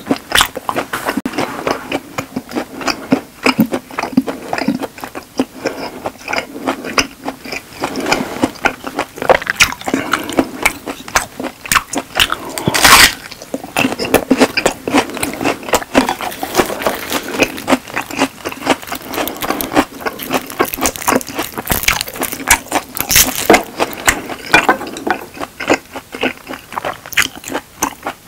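Close-miked mouth sounds of a person eating steak: steady chewing with many wet smacks and clicks, dense and irregular. There are louder bursts about halfway through and again a few seconds before the end.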